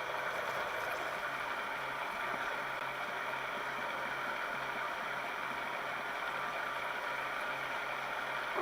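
Milling machine running steadily, with a constant motor hum and spindle whir.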